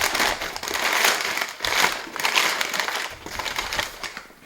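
Packing material crinkling and rustling in several bursts as a box of products is unpacked by hand.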